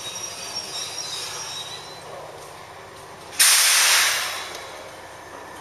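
Ex-Seibu 'Red Arrow' electric train (Toyama Chiho Railway 16010 series) pulling slowly into a platform, its wheels and brakes squealing thinly at a high pitch. Past the middle comes a sudden loud hiss of released compressed air, about a second long, that then fades out.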